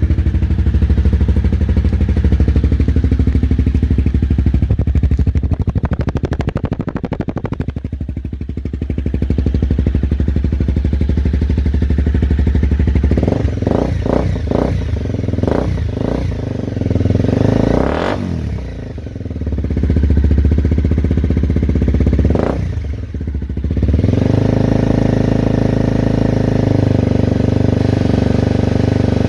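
Honda CBR250R's single-cylinder engine running through a stainless steel Delkevic aftermarket exhaust, idling and revved in short throttle blips several times, with a quick run of blips in the middle.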